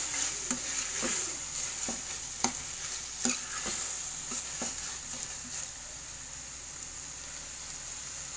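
Chopped onions and tomatoes sizzling in a metal kadhai while a metal spatula stirs them, scraping and knocking against the pan in irregular clicks.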